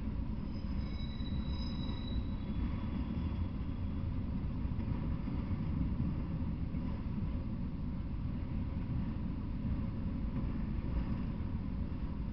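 Freight train of autorack cars rolling past on the rails, a steady low rumble of wheels and cars, with a brief thin high squeal in the first couple of seconds.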